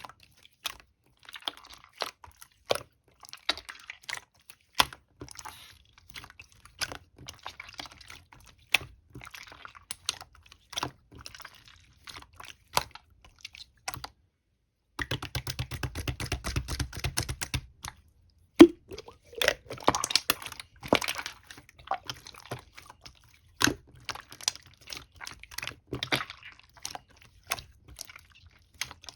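Clear slime being squished and pressed by hand, making irregular sharp clicks and pops. About halfway through, after a short pause, there is a dense run of rapid small clicks over a low rumble lasting a few seconds.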